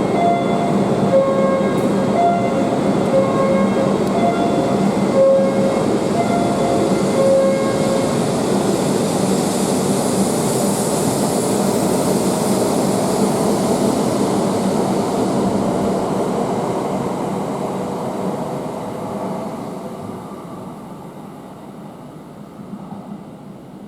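Shinkansen train running through the station: a loud, steady rush of wheel and air noise with a few steady tones early on. The noise fades away over the last several seconds as the train moves off.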